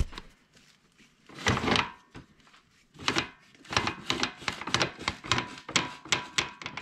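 Metal clicking, clunking and scraping as the drive shaft and gears of a Suzuki LT230 quad's shaft drive are turned and worked by hand, a quick irregular run of knocks filling the second half. The drive shaft's U-joint yoke is snapped, letting the parts knock about loosely.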